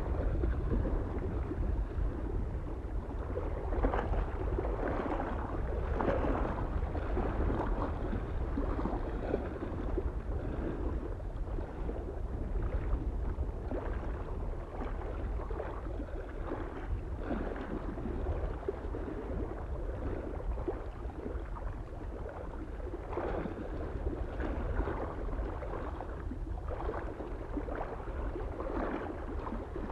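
Small waves lapping against a lake shore in irregular surges, with a steady low wind rumble underneath.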